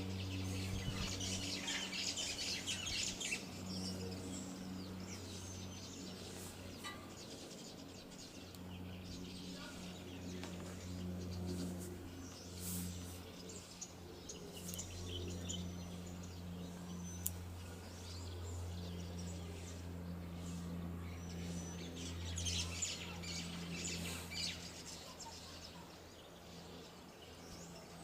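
Small birds chirping and twittering in several bursts, over a low steady hum.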